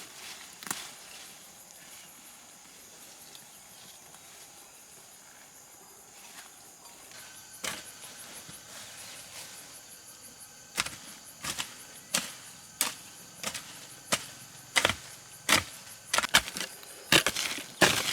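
A blade chopping, sharp strokes about two-thirds of a second apart that start about eleven seconds in and grow louder and quicker toward the end. Before that there is a faint steady outdoor background.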